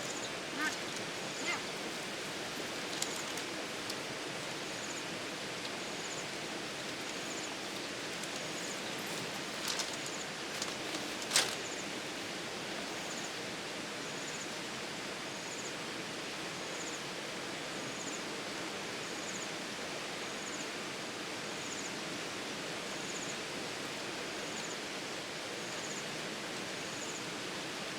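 Steady hiss of outdoor water noise, with a faint high chirp repeating about once a second. A few sharp clicks or knocks come through, the loudest about eleven seconds in.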